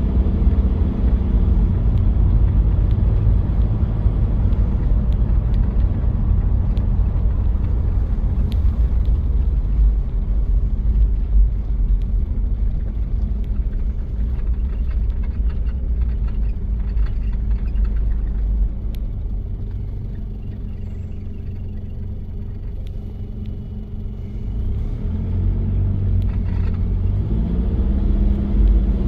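Toyota Prado diesel engine running under way with a heavy low rumble. It drops back and quietens for a few seconds past the middle, then climbs in pitch as it picks up revs near the end.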